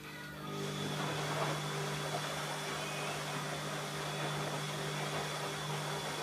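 ELIN A 100 E washing machine running: a steady motor hum with an even rushing noise over it that comes up about half a second in.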